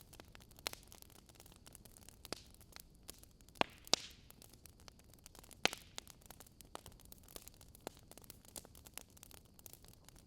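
Burning wood fire crackling: a steady stream of small snaps over a faint hiss, with a few louder pops, the sharpest about four seconds in and again near six seconds.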